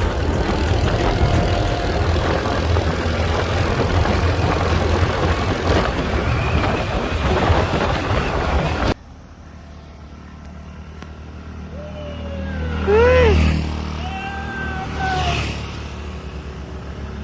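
Scooter riding noise: wind buffeting the microphone over the low running of the engine and road. About nine seconds in it cuts off suddenly to a quieter low hum, broken by three pitched sounds that rise and fall.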